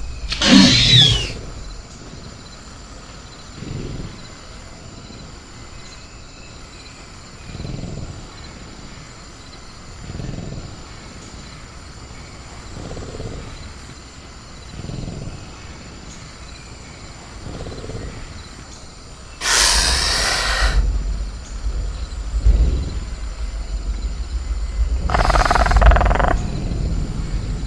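Designed velociraptor creature sound effect: a screech that falls sharply in pitch about half a second in, then quiet low growls or breaths every couple of seconds, and two loud harsh roars over a low rumble later on. A steady high cricket drone runs underneath.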